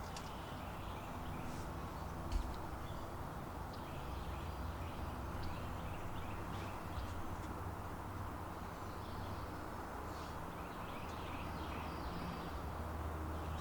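Outdoor ambience over a swamp: a steady low rumble with faint, scattered bird chirps and a few light clicks.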